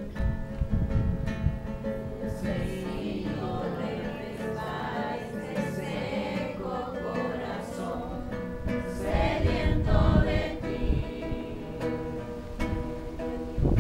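A group of voices singing a worship song to strummed acoustic guitar.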